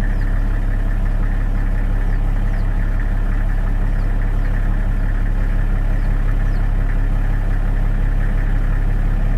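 A vehicle engine idling with a steady low hum, and a few faint high chirps over it.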